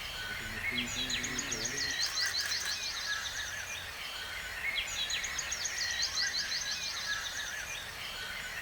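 A small bird singing rapid chattering phrases of many quick high notes, in three bouts of about three seconds each, over a steady background hiss.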